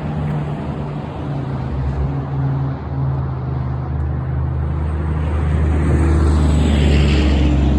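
A truck approaching and driving past, its engine drone and road noise building and loudest near the end.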